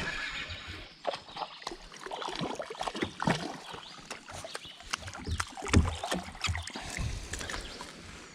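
Kayak fishing handling noise: irregular knocks and clicks of gear against the kayak, with low thuds and light water sounds.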